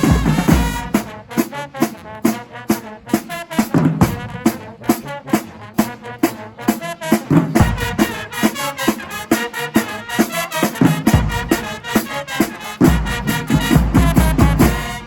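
High school marching band playing a fast tune, with brass over a driving drumline and heavy bass drum hits, stopping right at the end.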